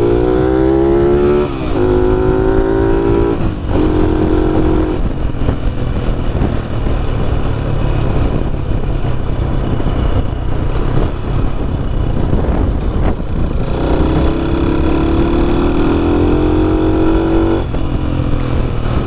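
Honda C90 single-cylinder four-stroke engine being ridden: it climbs in pitch through the gears with short breaks at the changes about 1.5 and 3.5 seconds in, runs along steadily, then accelerates again near the end and drops off suddenly. A low rumble runs underneath throughout.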